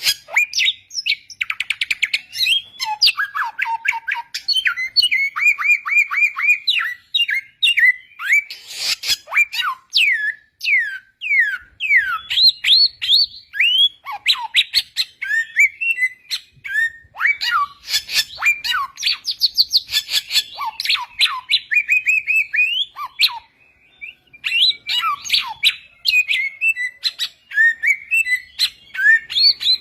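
A samyong songbird singing a long, varied song: rapid trills, runs of repeated notes and sharp downward-slurred whistles, with hardly a pause.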